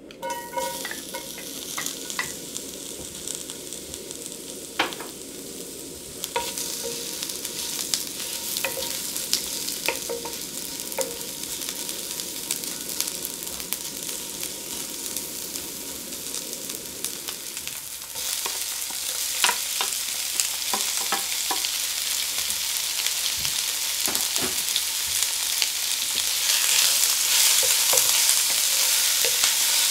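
Sliced onion sizzling in hot oil in a frying pan, starting suddenly, with the frequent clicks and scrapes of a wooden spatula stirring it. Partway through, shredded pork goes in and the sizzle grows louder.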